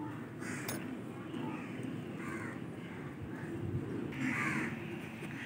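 Birds calling outdoors, short calls repeating about once a second with the loudest about four seconds in, over a steady low background noise.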